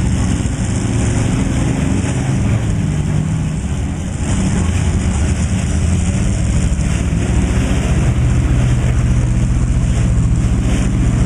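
Truck engine running loud, its pitch rising and falling through the first few seconds, then holding steady for the rest.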